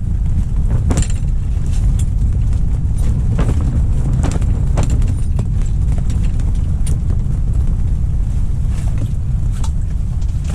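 Strong wind buffeting the microphone as a loud, steady low rumble, with a few faint clicks over it.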